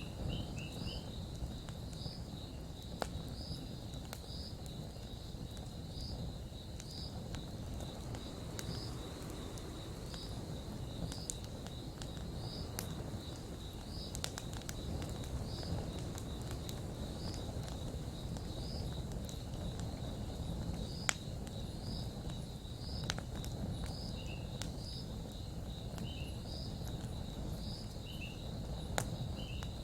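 Campfire burning with a low crackle and a few sharp pops. Behind it, insects keep up a steady high trill with short chirps about once a second, and a bird gives short falling calls near the start and again near the end.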